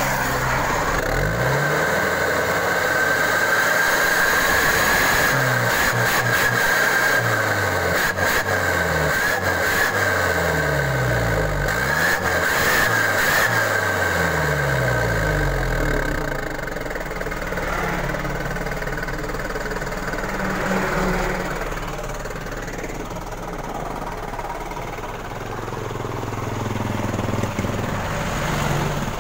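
Isuzu engine heard through its exhaust, revved up and back down again and again in the first half, then settling to a steadier, quieter run near idle. A steady high whine sits over the revving and fades as it settles.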